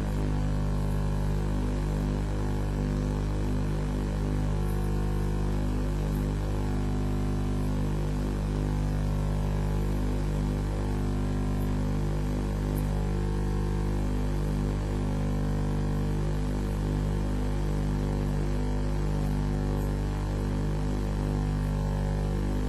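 Steady electrical hum and buzz with several droning tones, unbroken and even in level.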